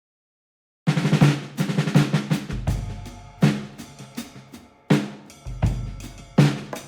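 Silence, then about a second in a music track led by a drum kit starts abruptly: snare and bass drum hits with rolls and fills, over a bass line.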